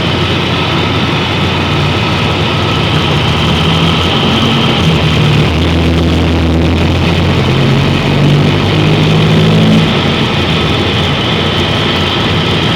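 York commercial air-conditioning units running: a steady rush of the condenser fans over a low compressor hum, which grows stronger for a few seconds in the middle.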